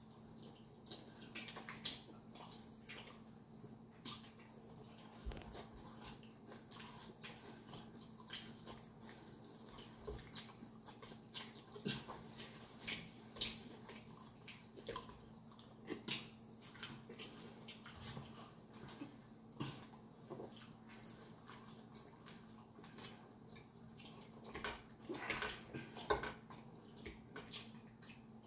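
Close-miked eating sounds: chewing and lip-smacking on fried chicken, a string of irregular soft wet clicks and smacks that get busier near the end. A faint steady hum runs underneath.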